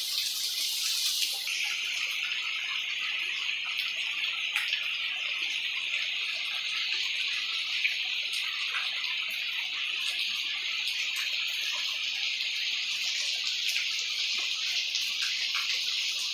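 Heavy rain falling, a steady hiss with scattered ticks of individual drops.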